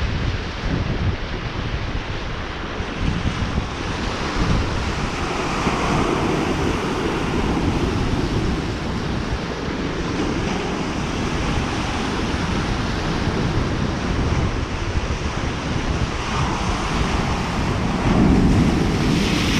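Lake Superior waves washing onto the shore, with surges about six seconds in and again near the end. Wind buffets the microphone throughout.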